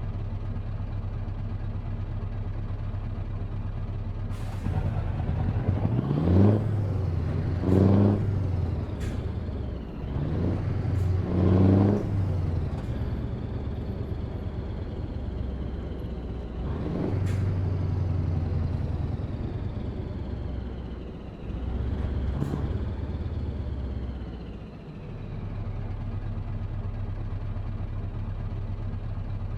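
Heavy truck's diesel engine idling, then revving up several times in turn as it pulls away through the gears and settling back to a steady idle about 25 seconds in. A few sharp clicks come between the revs.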